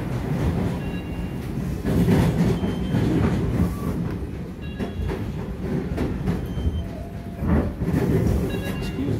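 Inside a moving SEPTA Regional Rail electric railcar: the steady rumble of wheels on track, with irregular clacks as the wheels run over rail joints and switches where the train diverges at a junction.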